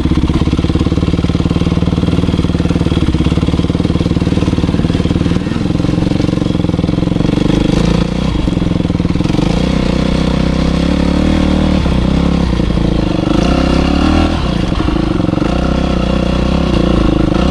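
Motocross bike engine running hard, its revs dropping and climbing again several times.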